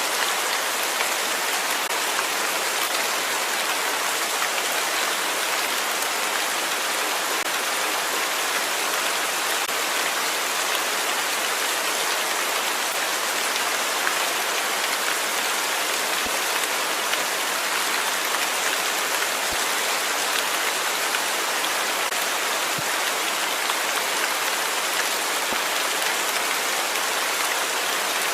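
Steady rain falling and pattering on a surface, an even hiss of drops with no letup.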